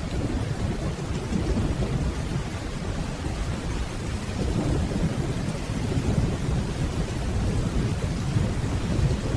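Steady rainfall over a continuous low, rolling rumble of distant thunder.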